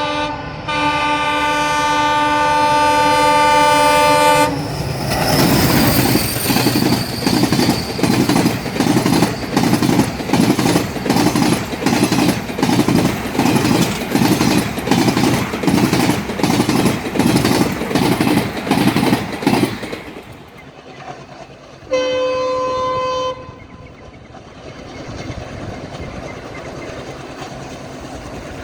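Alco WDM3A diesel locomotive's horn sounding one long blast, broken briefly near the start. The train then passes close by with a steady clickety-clack of wheels over rail joints, about two beats a second. After an abrupt cut, a second train's horn gives one short blast about two-thirds of the way through, over a low rumble.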